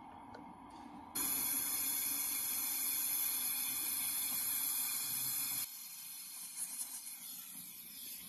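Steady hiss of gas, starting abruptly about a second in and cutting off suddenly after about four and a half seconds.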